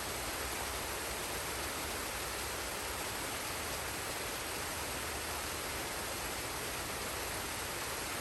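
Forest waterfall and stream: falling water rushing in a steady, even hiss with no breaks.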